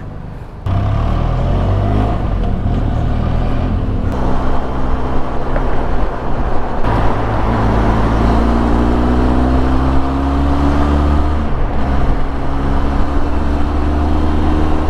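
Benelli TRK 502X parallel-twin engine running under way, cutting in loud under a second in and climbing in pitch as the bike accelerates, most clearly over several seconds past the middle.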